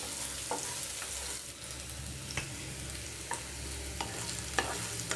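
Chopped onion and green chilli sizzling in oil in a non-stick pan while a wooden spatula stirs them, with about four light taps of the spatula against the pan.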